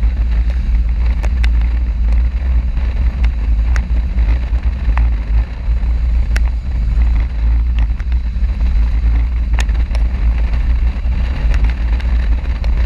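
Motorcycle riding on the road: heavy wind buffeting on the action camera's microphone over the steady running of the engine, with scattered small clicks.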